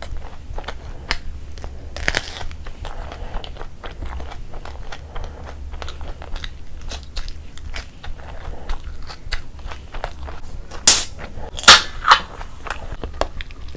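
Close mouth sounds of eating: steady chewing with small crunchy bites. A few much louder sharp clicks come about eleven to twelve seconds in.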